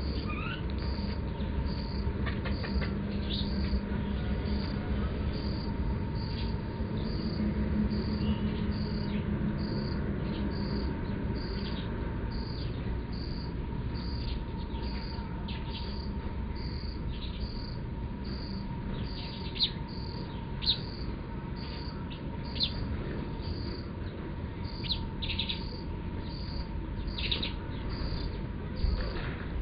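Sparrows chirping in short, scattered calls, with a faint high pulse repeating about once a second and a low background rumble.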